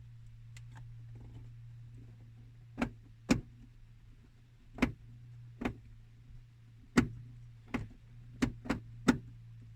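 Sharp, irregular clicks and taps of a screwdriver and screws on plastic dashboard trim, about nine of them through the second half, over a steady low hum.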